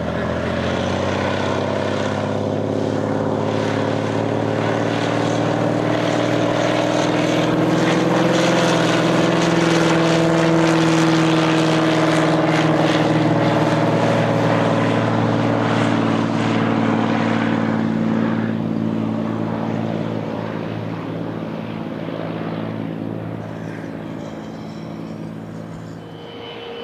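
Cirrus SR22T single-engine piston plane at takeoff power, its turbocharged six-cylinder engine and propeller drone growing louder as it passes about ten seconds in. The drone then drops slightly in pitch and fades as the plane climbs away.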